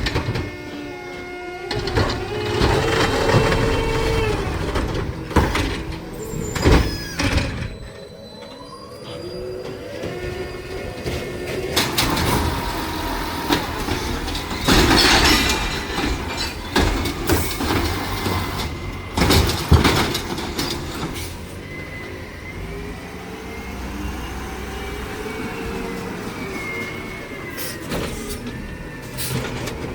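Garbage truck at work: the engine and hydraulics run under a series of sharp metallic bangs and clanks, with a whine that rises and falls in the second half.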